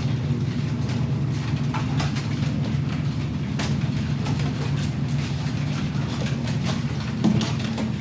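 Steady low mechanical hum with scattered light clicks and knocks.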